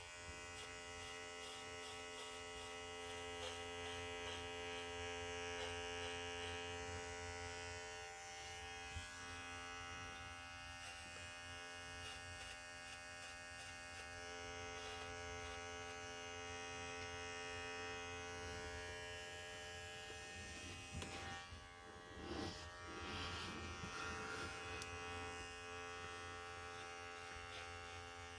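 Electric dog grooming trimmer (the larger size) running with a steady buzz, held near a puppy's paws to get him used to it. A brief spell of scuffing or handling noise comes about three-quarters of the way through.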